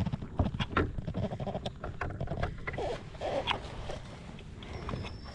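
Irregular knocks, clicks and rustling from handling a freshly landed fish and tackle in a plastic fishing kayak, over a low steady wind rumble.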